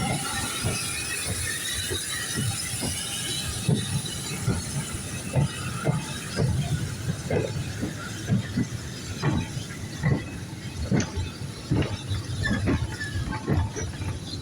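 Steam-hauled goods train rolling slowly into a station, its wagon wheels knocking irregularly over rail joints, with a steady hiss of steam from the locomotive.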